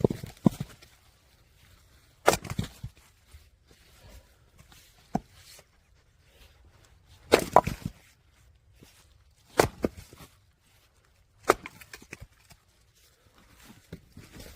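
Firewood being split: a sharp chopping hit every two to three seconds, some followed at once by a second crack as the log splits.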